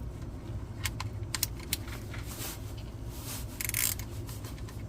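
A few sharp metal clicks and clinks from a 15 mm socket wrench being handled and set on the oil drain plug, with a couple of short scraping sounds, over a steady low hum.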